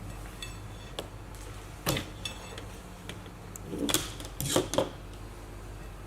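Monopolar cables and plugs being handled and pulled out of a diathermy unit's sockets: a few scattered clicks and knocks, the loudest about two seconds in and a cluster around four to five seconds in.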